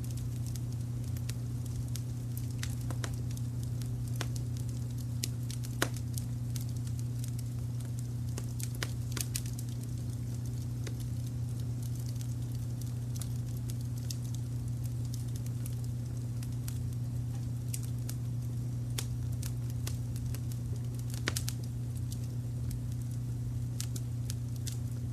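Wood fire crackling with frequent small ticks and pops, two sharper pops about six seconds in and about twenty-one seconds in, over a steady low brown-noise rumble.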